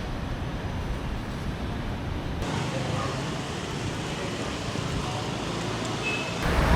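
Steady street ambience: a hum of road traffic with faint indistinct voices, changing abruptly about two and a half seconds in and again near the end.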